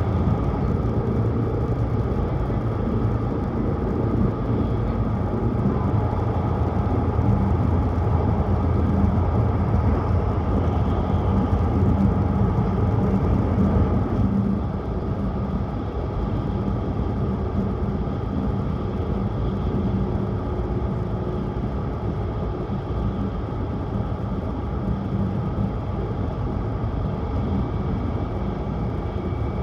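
Cabin noise of a Tohoku Shinkansen Hayabusa train running at speed: a steady rumble of running gear and air, a little quieter about halfway through.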